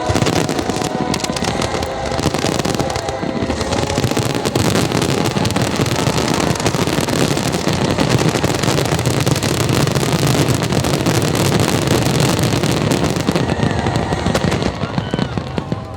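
Fireworks going off in a dense, continuous barrage of bangs and crackling, typical of a show's finale. It thins a little just before the end.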